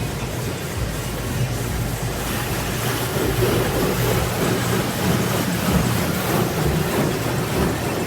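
Automatic car wash spraying water over the car, heard from inside the cabin as a steady rushing wash that grows stronger and hissier about two to three seconds in.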